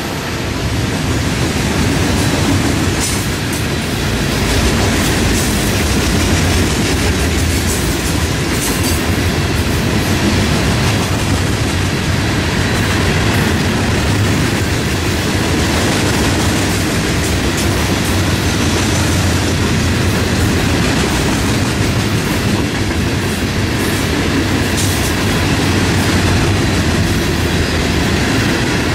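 Empty coal hopper cars of a freight train rolling past: a steady rumble of steel wheels on rail, with occasional sharp clicks.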